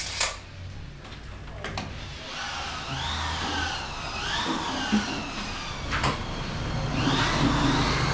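A motor engine whose pitch rises and falls a few times and then settles into a steady, louder hum near the end, with a few sharp knocks.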